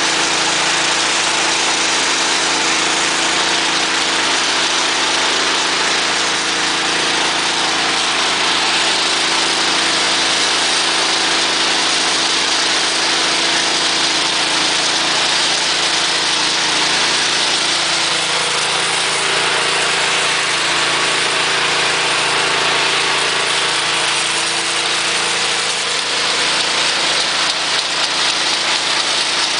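Small petrol engine running steadily under load, driving a feed extruder, with a dense mechanical hiss and a steady hum throughout.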